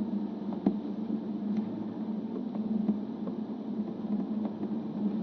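Game-drive vehicle's engine running with a steady low hum, a few faint clicks over it.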